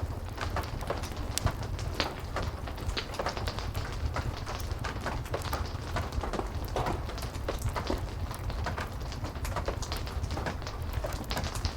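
Heavy rain with a fireplace crackling: a steady low rumble under frequent sharp crackles and pops.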